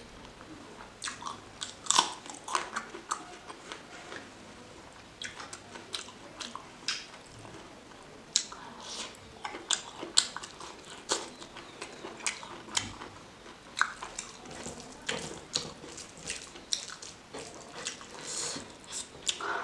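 Close-miked chewing and mouth sounds of someone eating chicken curry and rice by hand, with many sharp, irregular clicks and smacks.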